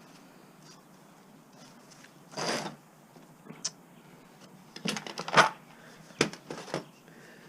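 Small metal parts and tools clinking, clattering and scraping as an appliance is taken apart by hand for scrap. A short scrape comes about two and a half seconds in, then a cluster of sharp clinks and clatters from about five seconds, the loudest just after five.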